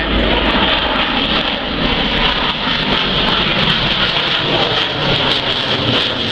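Loud, steady jet aircraft engine noise from a display aircraft flying past.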